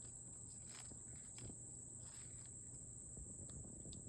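Faint outdoor background of insects giving a steady high-pitched drone, with a few light rustles and ticks.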